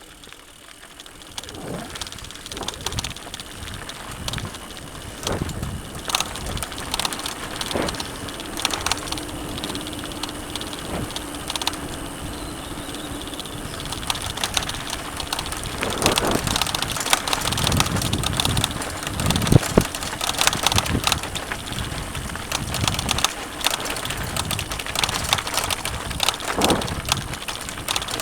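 Mountain bike ridden over a rough dirt trail: tyre noise on dirt and stones, with frequent knocks and rattles from the bike, louder over the second half.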